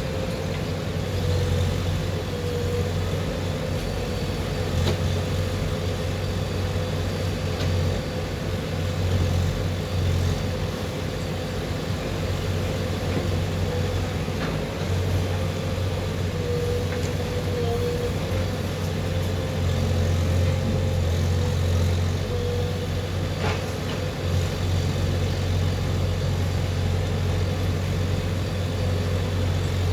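JCB 3DX backhoe loader's diesel engine running steadily, its hum swelling and easing as the load changes, with a steady whine over it and a few faint knocks.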